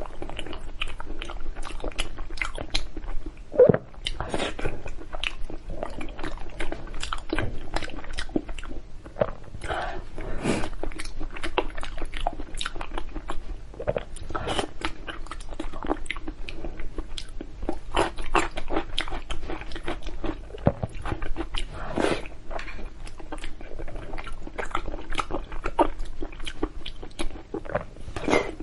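Close-miked chewing and biting of soft glazed meat: wet mouth smacks and clicks several times a second, with one louder smack about four seconds in.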